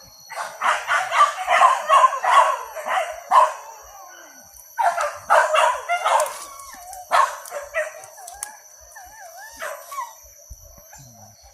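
Hunting dogs barking in two runs of rapid, repeated barks, the first for about three seconds and the second starting about five seconds in, then fading to a few softer wavering calls.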